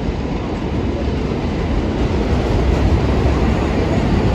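New York City subway train running on elevated track, a steady rumble that grows slightly louder.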